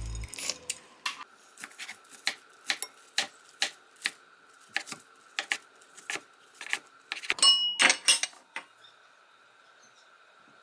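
Light clinks and taps of kitchenware being handled, roughly two a second, then a quicker, louder clatter near the end where one piece rings briefly.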